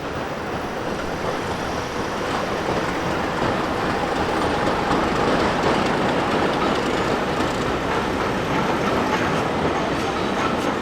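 Train running past on the rails: a steady rolling noise of wheels on track that grows a little louder about two seconds in.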